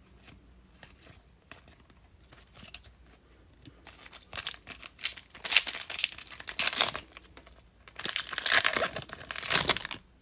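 A trading card pack's foil wrapper being torn open and crinkled, in two crackly spells in the second half after a few seconds of faint handling clicks.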